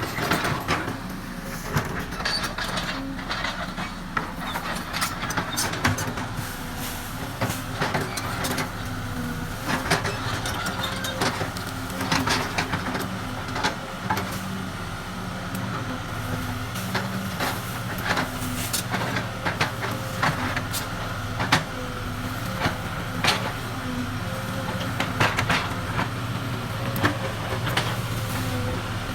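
Excavator running, its engine a steady low hum with a steady higher whine over it, and frequent sharp clanks and knocks scattered throughout.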